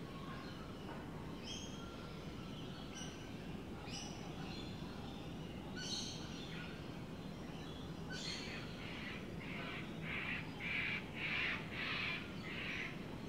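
Birds calling: a few short, separate calls, then a run of about seven calls, nearly two a second, in the last five seconds, over steady low background noise.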